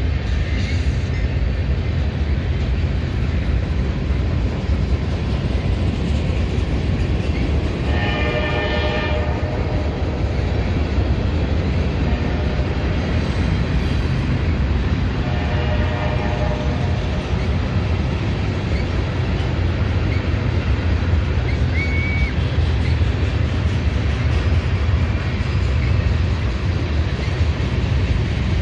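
CSX train rolling past with a steady low rumble, its horn sounding twice, a longer blast about eight seconds in and a shorter one around fifteen seconds in.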